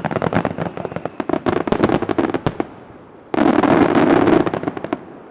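Aerial fireworks bursting: a bang followed by rapid, irregular crackling of many small reports, then a second, louder wave of dense crackling about three seconds in.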